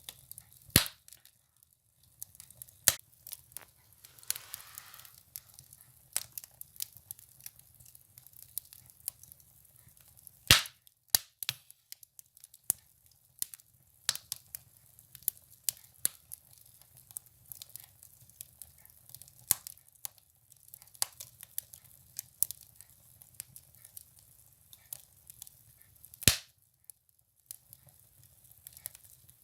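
Firewood burning in a wood stove, crackling with irregular sharp pops. The loudest cracks come about a second in, about ten seconds in and near the end.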